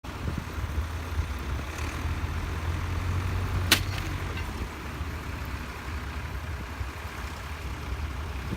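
Case International 1394 tractor's four-cylinder diesel engine running steadily with a low rumble, and one sharp click a little over three and a half seconds in.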